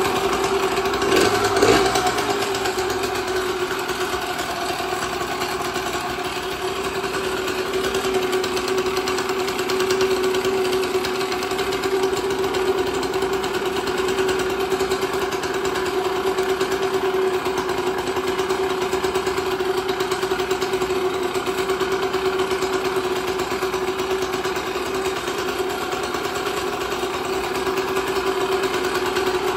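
Yamaha GT50 minibike's 49cc air-cooled single-cylinder two-stroke engine idling steadily, with a brief rise in revs about two seconds in.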